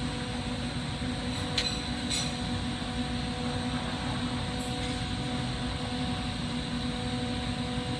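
Steady rushing roar of a glass shop's lampworking torch flame and ventilation, with a constant hum of several even tones underneath. Two light clicks come about a second and a half and two seconds in.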